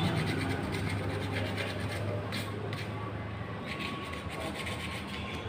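Refrigerator compressor running with a steady low hum, with scraping and rubbing of hands or tools on the pipework about two to three and a half seconds in.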